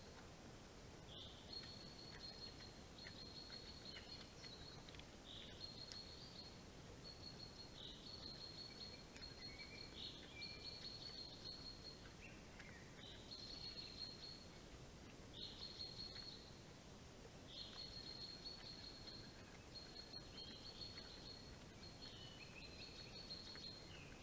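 Faint songbird singing short, high chirping phrases that repeat about every two seconds, over a steady thin high-pitched tone.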